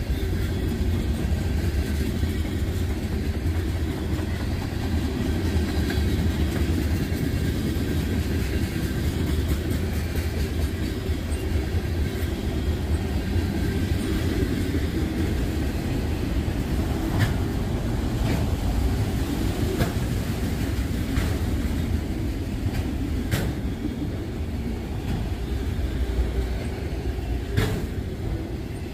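Freight train cars, hoppers and tank cars followed by autoracks, rolling past at close range: a steady rumble of steel wheels on the rail, with scattered sharp clicks from the wheels in the second half.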